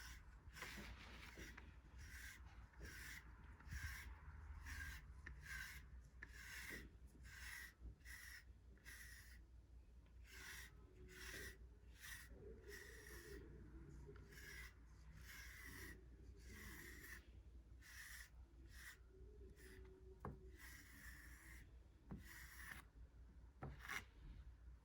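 A brush being drawn through a cat's fur in steady, repeated strokes, about one to two a second, each a soft scratchy rasp.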